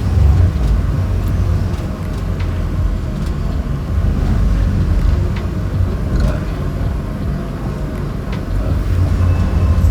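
Delivery truck's engine running, a steady low rumble.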